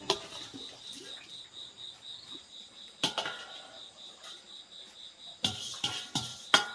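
Insects, crickets by the sound, keep up a steady pulsing trill throughout. A sharp knock comes about three seconds in, and a run of knocks and clatter follows near the end.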